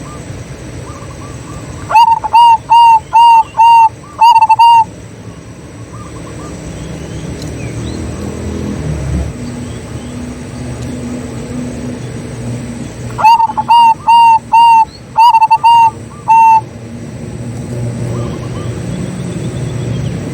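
Zebra dove (perkutut) cooing: two loud bursts of about seven quick, clipped notes, a couple of seconds in and again about two-thirds of the way through, over a steady low background rumble.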